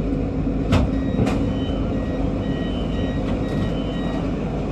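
Two-tone electronic beeping repeated in short rapid pulses, starting just over a second in: the door-closing warning of an MRT Kajang Line train as it is about to leave the station. Under it runs the steady hum of the stopped electric train, and two sharp clicks come just before the beeping.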